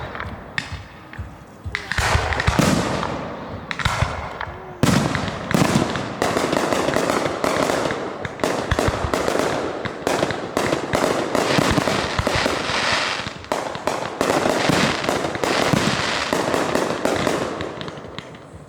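Fireworks going off: a few separate bangs at first, then from about five seconds in a dense, rapid string of bangs and crackling that keeps going.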